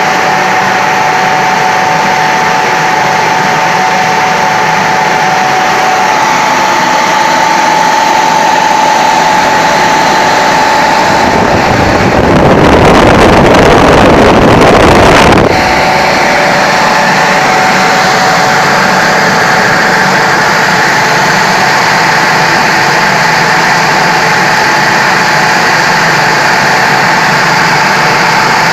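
VTs 14-46 No. 3.15 radial (centrifugal) fan, driven by a 1.5 kW, 1500 rpm electric motor, running steadily with a loud rush of air and a steady tone. About twelve seconds in, the rush grows louder and fuller for around four seconds and drowns the tone, then it settles back.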